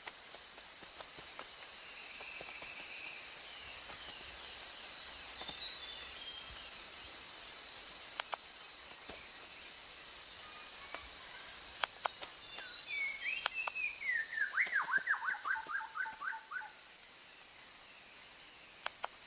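Rainforest ambience: a steady high insect drone with a few sharp clicks and scattered faint chirps. About two-thirds in, a bird calls a quick run of about a dozen notes that fall in pitch.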